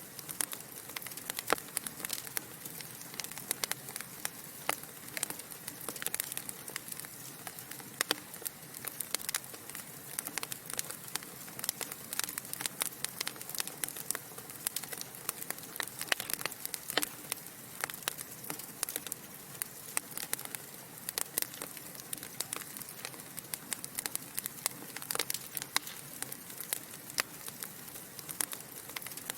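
Logs burning in a fireplace, crackling with many sharp, irregular snaps over a steady soft hiss.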